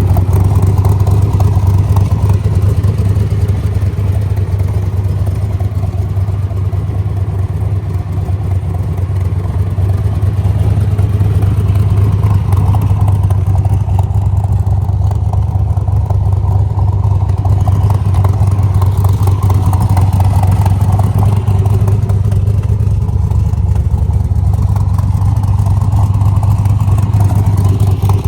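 Corvette 427 big-block V8 running through side exhaust pipes, a steady deep exhaust note that swells gently now and then.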